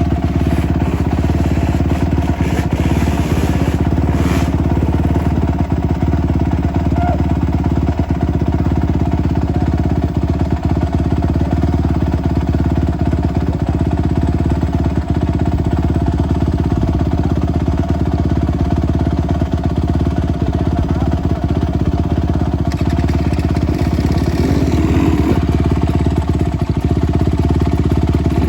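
Motorcycle engine running steadily at an even pace.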